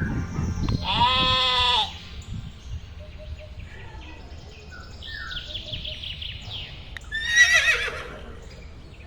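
Farm animals calling: a long pitched call about a second in, fainter calls in the middle, and a louder wavering call near the end.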